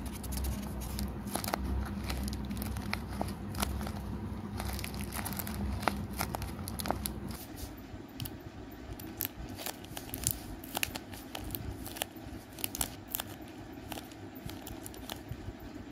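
Paper squishies wrapped in clear tape being handled and squeezed: the paper and tape crinkle and crackle in quick, irregular snaps. A low hum sits under the first half.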